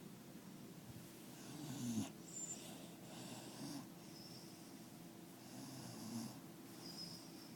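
Dog snoring in its sleep: a slow, drawn-out snore every couple of seconds, three in all, the loudest about two seconds in.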